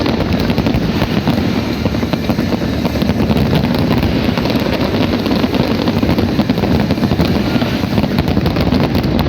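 Fireworks going off in a dense barrage: rapid crackling and booms running together into a continuous rumble.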